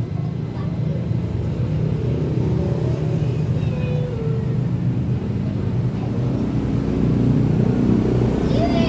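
Honda XRM 125's single-cylinder four-stroke engine running steadily with a low rumble, getting a little louder about seven seconds in.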